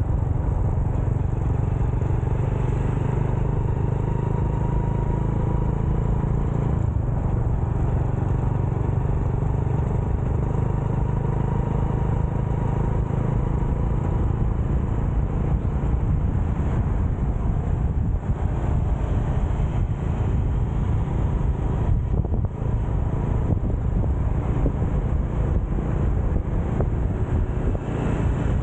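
Motorcycle running at a steady road speed, a continuous low rumble with a faint steady engine tone above it and no changes.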